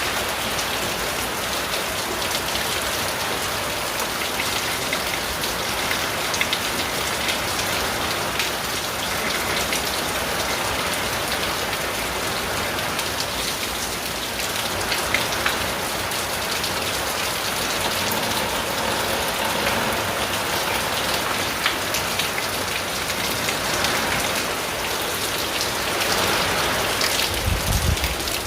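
Steady, heavy rain drumming on a tin roof, a dense hiss with scattered sharper drop hits. A low rumble comes in just before the end.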